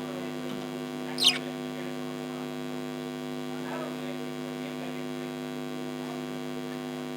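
A steady electrical hum, with one short, sharp budgerigar chirp about a second in and a few faint warbles a few seconds later.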